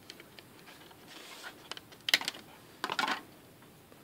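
Small plastic clicks and scrapes of a removable smartphone battery being fitted into the back of the phone, with the sharpest snaps about two and three seconds in.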